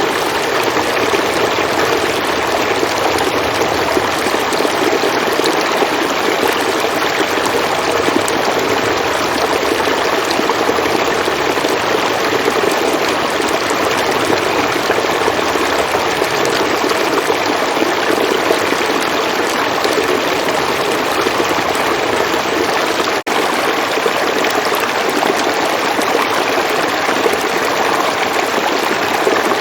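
River water flowing: a steady, unbroken noise of running water, with a split-second dropout about two-thirds of the way through.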